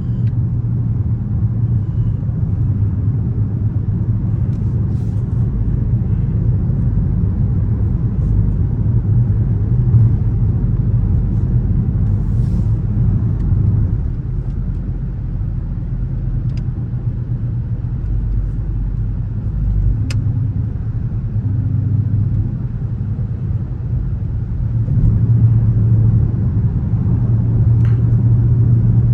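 Dodge Charger R/T's V8 engine and exhaust, a low steady drone while driving, easing off through the middle and building again in the last few seconds. A few faint ticks sound over it.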